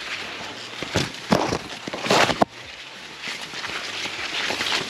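Corn leaves rustling and crackling in several short bursts, the longest about two seconds in, stopping abruptly.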